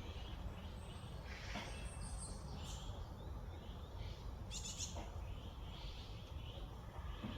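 Wild birds calling and chirping on and off, with short high chirps, over a steady low background rumble.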